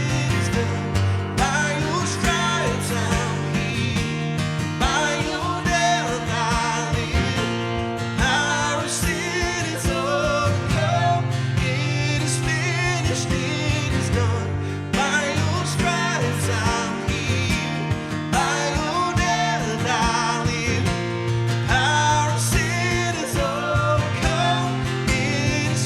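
Worship song played by a band with strummed acoustic guitar, steady and unbroken.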